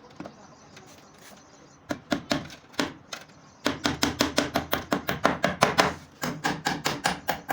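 A hand tool striking wood in sharp, rapid blows. A few scattered strikes about two seconds in give way to a quick run of about six a second just before halfway, broken by a brief pause and then resumed.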